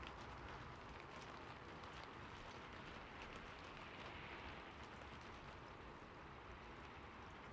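Steady rain falling on a roof, an even hiss with scattered individual drop ticks.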